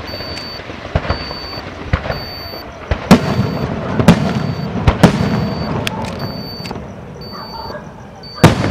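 Aerial fireworks bursting: a string of bangs about a second apart. The loudest three come in the middle, each trailed by crackling, and one more loud bang comes near the end.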